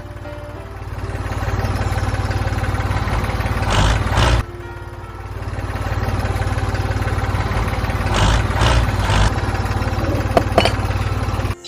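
A small motor running steadily with a heavy low rumble: it builds up over the first second, drops back about four seconds in, picks up again and cuts off suddenly near the end.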